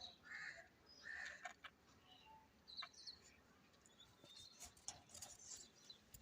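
Budgerigars chirping and chattering faintly, in short scattered calls with a few soft clicks.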